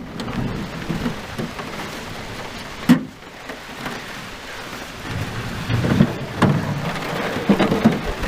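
Rain falling during a thunderstorm, with thunder rumbling low in the background. Several sharp knocks cut through it, the clearest about three seconds in.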